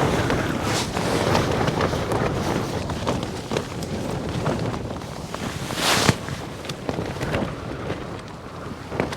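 Storm-force wind buffeting the microphone in uneven gusts, with irregular rustles and snaps of nylon tent fabric. One louder burst comes about six seconds in.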